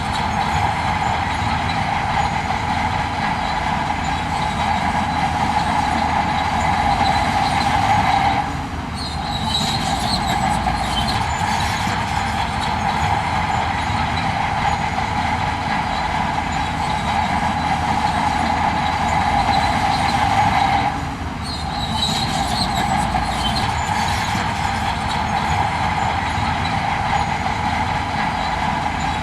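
Heavy earthmoving machinery running steadily under load, a continuous drone with a strong whine, dipping briefly twice, about a third and about two-thirds of the way through.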